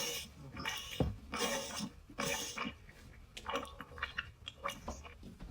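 Wet mouth sounds of oral sex from an adult video's soundtrack: irregular sucking and slurping noises, coming in short bursts.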